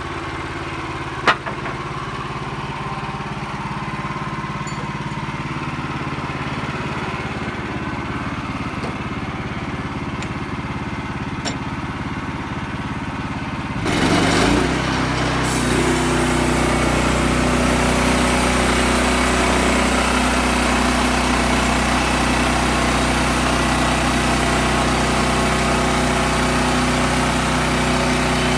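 Sawmill's gas engine running steadily, with a sharp click about a second in. About halfway through it revs up and then runs on louder.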